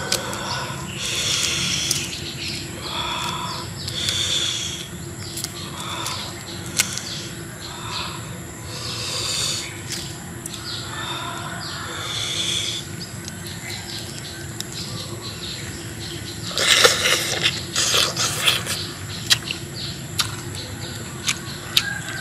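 Birds chirping in short repeated calls, with a brief burst of rustling and crackling about two-thirds of the way through.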